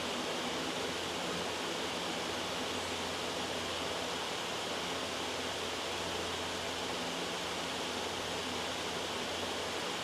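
Steady, loud white-noise hiss with no change throughout.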